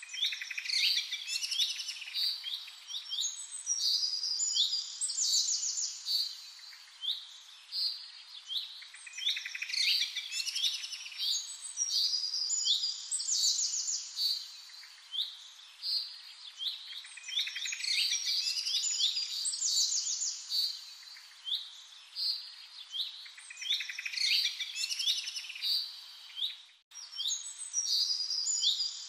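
Birds chirping and singing, many short calls and rapid trills overlapping, with a brief break near the end.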